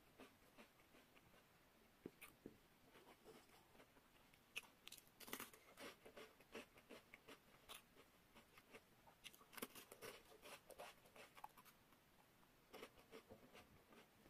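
Faint, close crunching and chewing of a crisp rolled wafer stick: irregular clusters of small crisp crunches, with a few louder bites among them.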